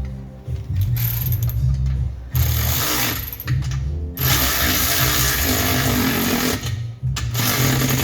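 Background music with a steady bass line, over which a metalworking tool works on the exhaust pipe in three bursts: a short one about two seconds in, a longer one of about two and a half seconds in the middle, and a third near the end.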